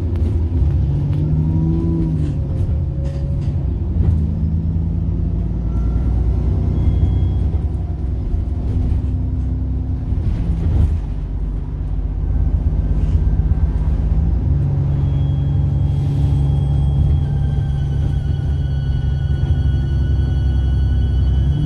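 Bus diesel engine running with a deep, steady rumble and a few knocks. From about two-thirds of the way in, a high turbocharger whine sets in as thin steady tones that slowly rise in pitch.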